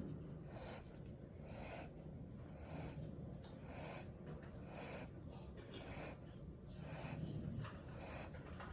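A golden retriever puppy snoring softly in deep sleep: short, airy breaths in an even rhythm, about one a second.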